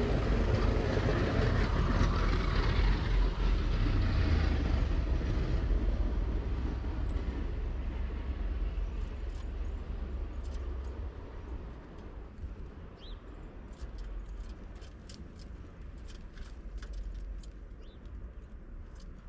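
A low rumble of a passing vehicle fades away over about ten seconds. Then comes a run of light, sharp taps from a red-bellied woodpecker pecking at the feeder, with a couple of short high bird chips.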